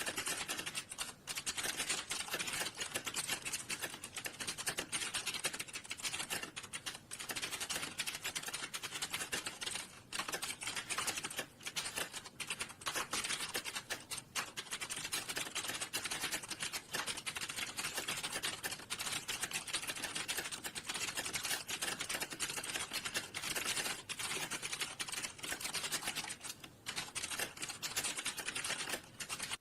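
Fast, continuous typing on a computer keyboard: a dense patter of key clicks with only brief gaps, starting and stopping abruptly.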